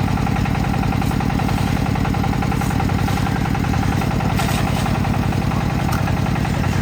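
Concrete mixer's engine running steadily with a fast, even chugging.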